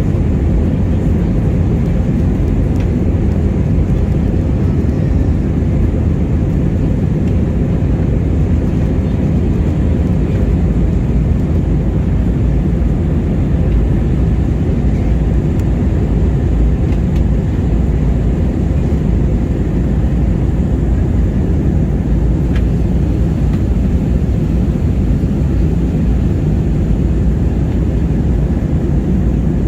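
Steady low rumble of a jet airliner's engines and airflow heard inside the passenger cabin, with a faint steady hum above it.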